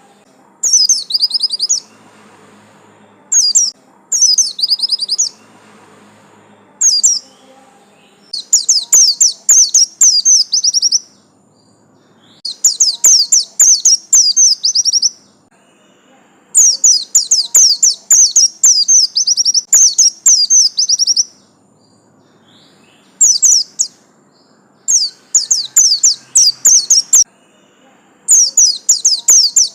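White-eye (pleci, a Zosterops) singing: phrases of rapid, high chirping notes, some under a second and others running three or four seconds, repeated over and over with short pauses between.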